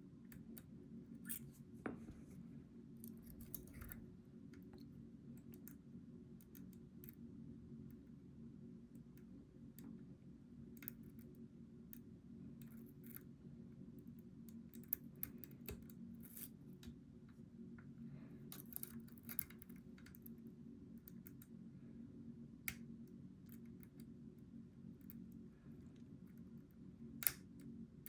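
Lock pick scraping and clicking against the pins of a Goal V18 lock held under tension: scattered sharp metallic ticks and short scrapes, the loudest near the end, over a low steady hum.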